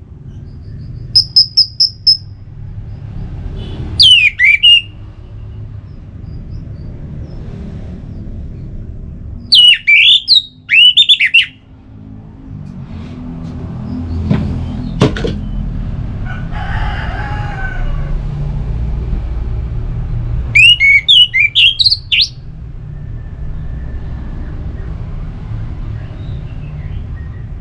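Orange-headed thrush singing: loud, short phrases of quick sweeping whistled notes, about five of them separated by pauses of a few seconds, over a steady low background rumble.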